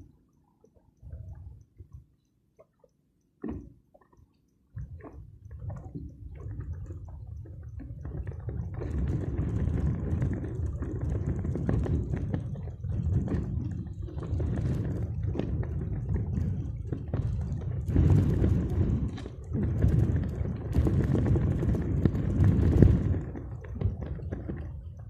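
Strong wind buffeting the microphone in gusts, setting in about five seconds in after a few faint knocks, and rising and falling with the gusts.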